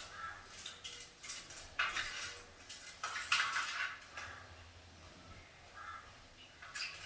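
A conure splashing about in its bath water, in irregular bursts, with a few short harsh calls.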